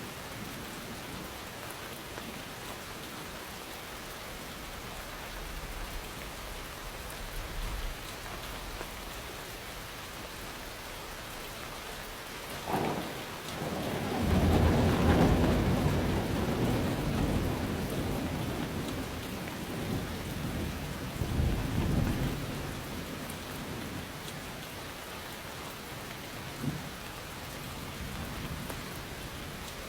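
Steady rain falling, with a thunderclap about halfway through: a sharp crack, then a long low rolling rumble that slowly dies away, and a second rumble a few seconds later.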